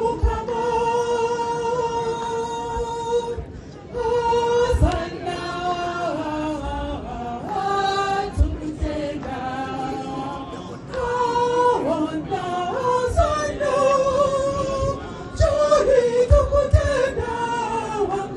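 A group of voices singing a slow song together in long held notes, with a few dull low thumps.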